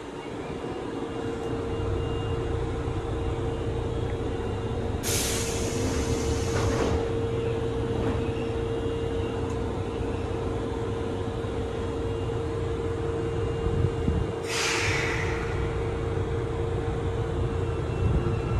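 Inside a Kintetsu 7020 series electric train car: a steady low rumble with a constant hum, broken twice by loud bursts of compressed-air hiss, about five seconds in and again about fourteen seconds in, each lasting one to two seconds.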